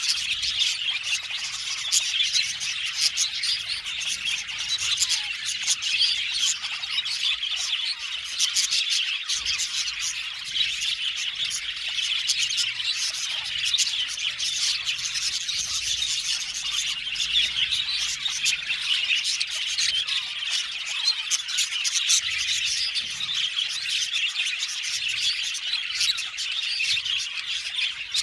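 A flock of budgerigars chattering and chirping all at once, a dense, continuous warble of many overlapping calls with occasional sharper squawks.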